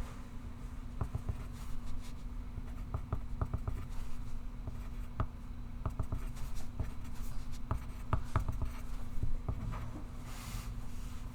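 Pencil writing on paper: a run of short scratching strokes and light taps, irregular and coming in quick clusters. A steady low hum runs underneath.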